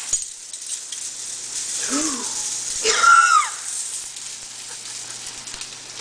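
A person's two short wordless vocal exclamations, about two and three seconds in; the second is louder and higher and slides down. A low steady hum runs underneath.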